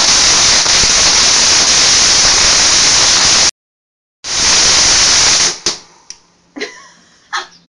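A firework spraying sparks with a loud, steady hiss. It cuts off suddenly about three and a half seconds in, returns half a second later, then dies away into a few short, fainter pops and squeals near the end.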